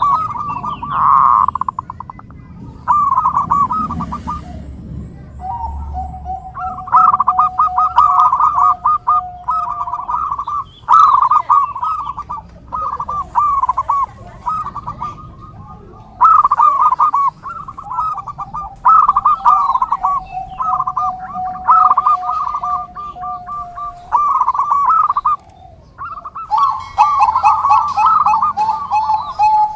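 Zebra doves (perkutut) cooing: repeated rippling, trilled phrases follow one another with short pauses, overlapping at times. Twice a long, steady, lower tone runs underneath the cooing for several seconds.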